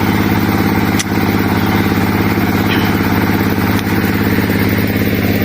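An engine running steadily at an even, unchanging idle, with one sharp click about a second in.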